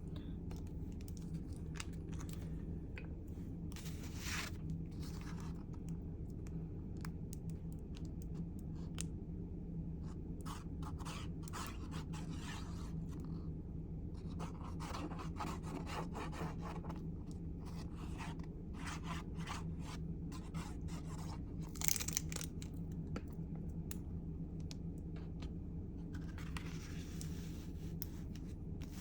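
Paper and craft materials handled on a work surface: intermittent rubbing, scraping and rustling with scattered soft clicks, a louder rustle about three-quarters of the way through.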